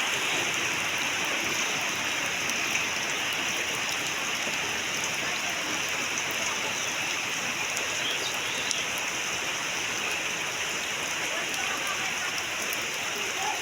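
Heavy rain falling steadily: a dense, even hiss with faint scattered drop taps.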